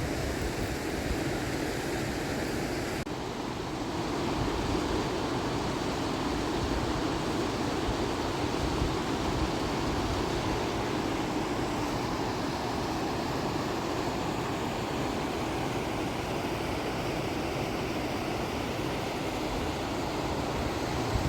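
Steady outdoor rushing noise, with wind buffeting the microphone in an irregular low rumble.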